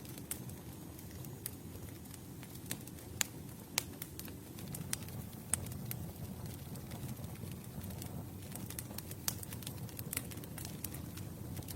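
Campfire burning: a steady low rumble of flames with irregular sharp crackles and pops, a few louder pops around three to four seconds in and again between five and six seconds in.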